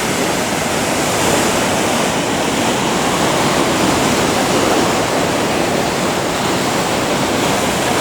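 Ocean surf: breaking waves producing a steady rushing wash of water.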